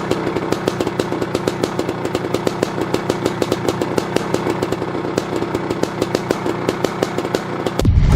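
1985 Maico 500's two-stroke single-cylinder engine idling with a steady, even popping beat. Near the end the sound changes abruptly to a louder low rumble.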